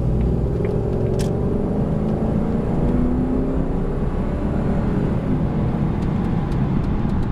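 1997 Jaguar XK8's V8 engine running under way on the road, a steady rumble of engine and road noise with the engine note shifting gently in pitch; a short click about a second in.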